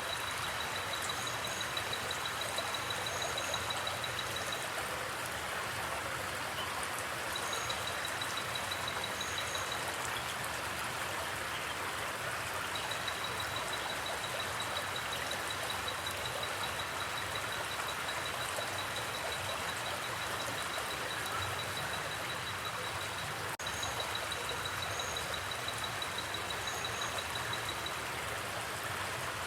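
Forest creek water flowing in a steady, even rush. A high, rapidly pulsing trill comes and goes over it, with a few short paired chirps.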